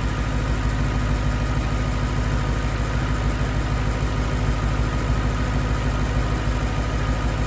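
BMW E92 M3's 4.0-litre S65 V8 idling steadily after a cold start.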